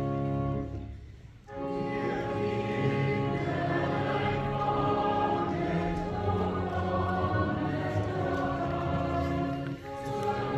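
A church choir singing a hymn with organ accompaniment. A held chord dies away about a second in, and the singing starts half a second later, with a brief breath pause near the end.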